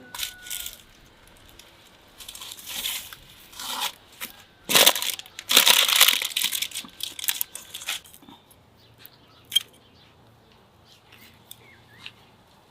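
Tearing and crinkling noises in several bursts, loudest about five to six seconds in, followed by a single sharp click.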